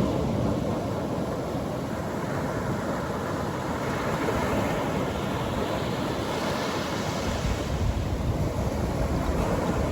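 Atlantic Ocean surf breaking and washing up the beach in a steady rush, with a wave's hiss swelling about two-thirds of the way through.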